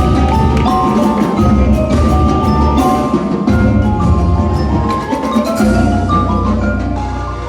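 Winter percussion ensemble playing: mallet keyboards carry a melody over a deep bass, with drum and other percussion hits throughout. The bass drops out briefly twice, then holds steady through the second half.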